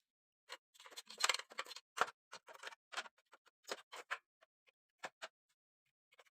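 Irregular clicks, taps and short scrapes of hard parts being handled, a dense cluster in the first half and then single clicks every half second or so.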